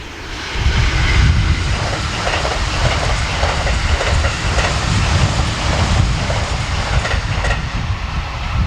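Train passing close by at speed: a loud rush that swells about half a second in, with wheels clacking over rail joints in a quick run of beats, easing off near the end.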